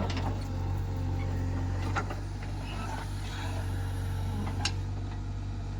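Heavy diesel engine running steadily at a constant low drone, with a couple of sharp knocks about two seconds in and near the end.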